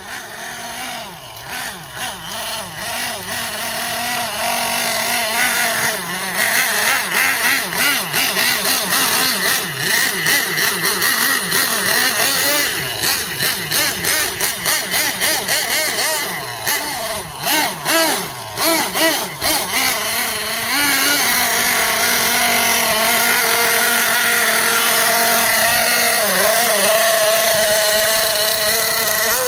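Small nitro engine of an RC monster truck running hard and high-pitched. Through the middle its note surges and dips a few times a second, then near the end it holds a steady high-pitched run.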